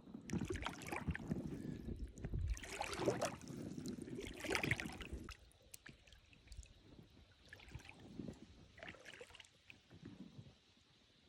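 Water splashing and sloshing in loud, uneven bursts for about five seconds, then a few softer splashes.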